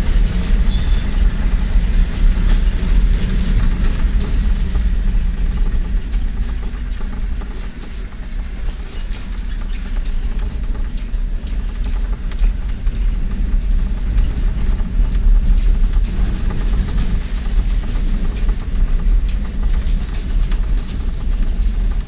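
Vehicle on the move, heard from inside: a steady low rumble of engine and tyres with frequent rattles and knocks, a little quieter for a moment about eight seconds in.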